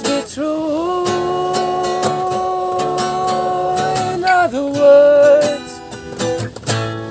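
A solo voice singing a long held note of about four seconds, then a shorter one, over a strummed plucked-string accompaniment: the closing phrase of a jazz standard.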